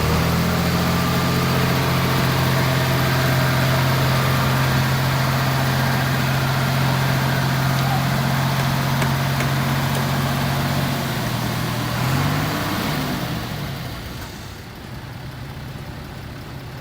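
Heavy diesel engine of a truck or earthmover running at a steady speed. About twelve seconds in its note wavers and shifts, then it settles to quieter, steady running.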